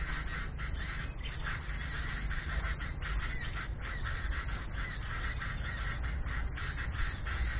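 Birds squawking with many short, harsh calls, over a steady low rumble.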